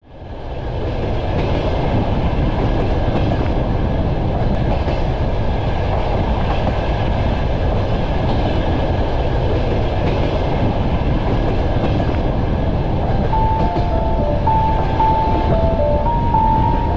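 Passenger train carriages running along the rails: a steady, loud rumble with rail clatter, fading in at the start. A simple melody begins faintly over it about three-quarters of the way through.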